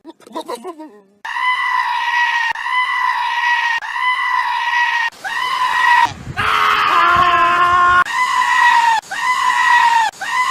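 Goat bleating in loud, human-like screams, one call about every second, each held at a fairly even high pitch. The calls are preceded by a few quieter, lower calls that fall in pitch.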